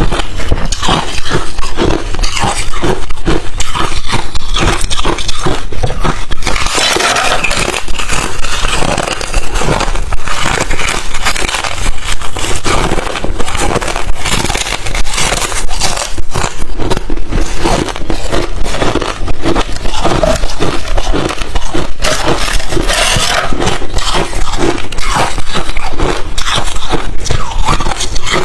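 A person biting and chewing crushed and thin refrozen ice close to the microphone: a dense, continuous run of crunching and cracking.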